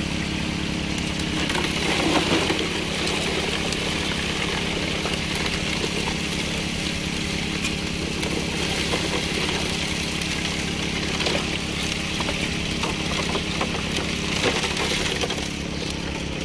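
Small engine-driven water pump running steadily while water runs through a Gold Hog highbanker sluice, with gravel and stones rattling and clicking through the hopper, a little more about two seconds in and near the end.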